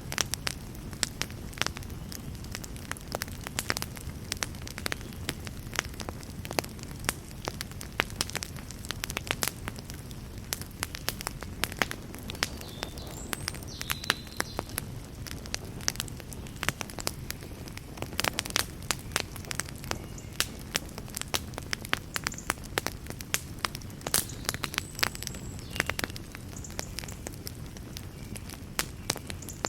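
Wood fire burning in a fireplace: a steady low rumble of flame with frequent sharp pops and crackles of burning wood, and now and then a faint brief hiss high up.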